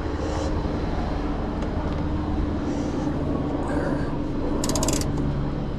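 Engine idling steadily with a low hum, typical of a tow truck left running while a car is loaded. About four and a half seconds in there is a brief rapid clatter of clicks.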